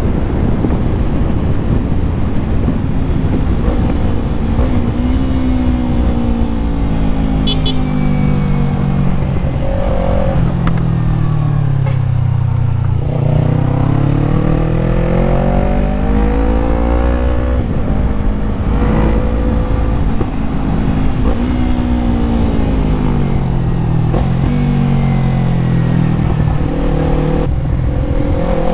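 Yamaha MT-03 motorcycle engine under way. The revs fall slowly to about halfway through, then climb again, followed by several shorter rises and drops as the rider works the throttle and gears.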